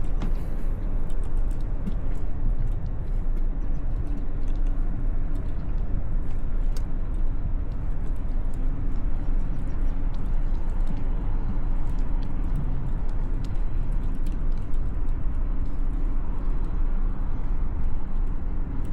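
Steady low rumble of wind and road noise from a bicycle ride along a city street, with motor traffic.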